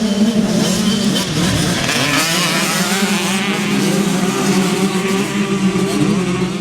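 Small youth motocross bike engines running and revving, their pitch wavering up and down as they ride. A steady low engine tone runs underneath throughout.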